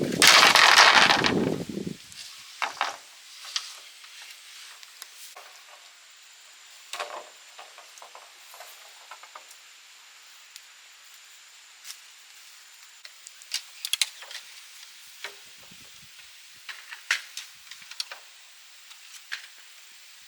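Rustling and light knocks of bamboo being handled: a loud rustling scrape lasting about two seconds at the start, then scattered small clicks and rustles.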